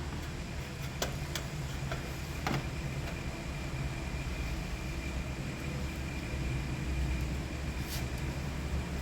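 Engine idling with a steady low rumble, with a few sharp light clicks about a second in, again near two and a half seconds, and near the end.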